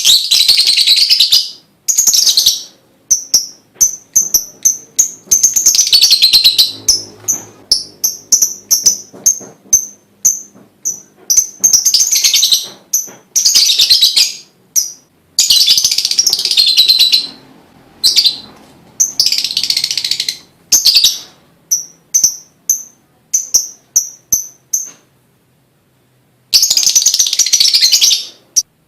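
Lovebird singing: a run of short, sharp, high chirps, two or three a second, broken every few seconds by harsh chattering bursts lasting a second or two.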